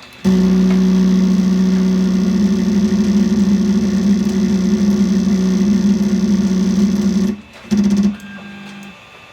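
Creality Ender 3 3D printer's Y-axis stepper motor grinding during auto-homing, as it keeps forcing the bed back because the Y endstop switch is not being hit. It gives a loud, steady buzz for about seven seconds that cuts off suddenly, then a short second burst.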